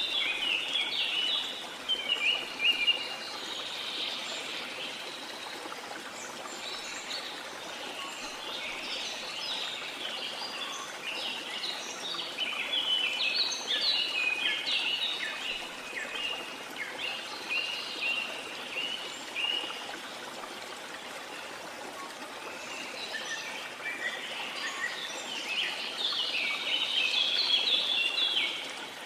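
Waterfall: a steady noise of falling water, with birds chirping over it in clusters of quick, high notes that stop for a few seconds about two-thirds of the way through.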